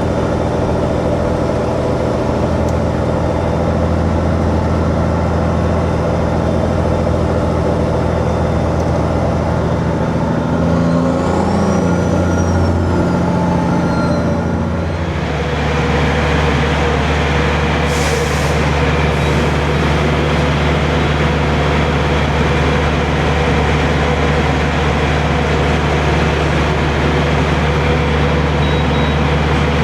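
Peterbilt 379's diesel engine running steadily, its note changing about halfway through, with a thin whistle rising and falling a little before that. A short air hiss comes a few seconds after the change.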